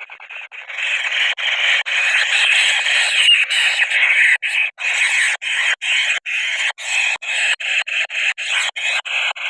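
Hungry kingfisher chicks begging noisily with harsh, rasping calls. The calls run as an almost unbroken chatter at first, then about halfway through break into short bursts, roughly two a second.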